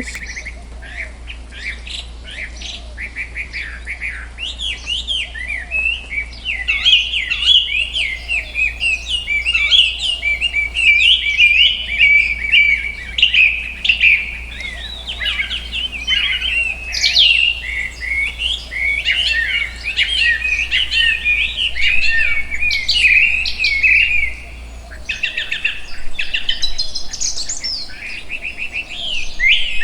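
Several small songbirds chirping and twittering at once, a busy stream of quick, high overlapping calls that thins out near the end.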